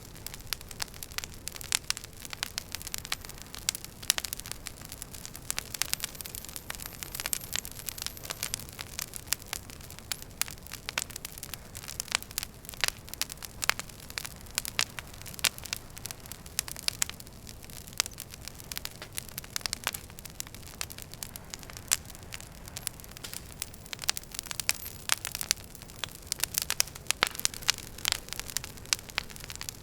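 Wood fire in a fireplace crackling: a low steady rumble of flame with many sharp pops and snaps of burning logs coming irregularly, several a second.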